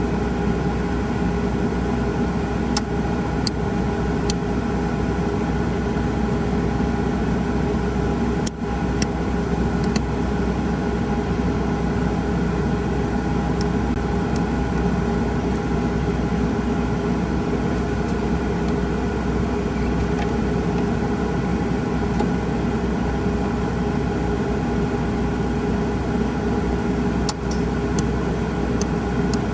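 Steady machine hum with several held tones, broken by a few short sharp clicks scattered through.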